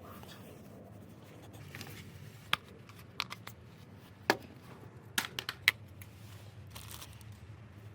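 Faint scattered clicks and taps of objects being handled, the loudest about four seconds in and a quick cluster between five and six seconds, over a low steady hum.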